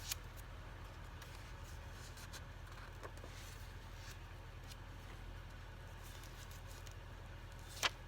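Pages and tags of a handmade paper junk journal being handled and turned: faint paper rustles and small clicks, with one sharper click near the end, over a steady low hum.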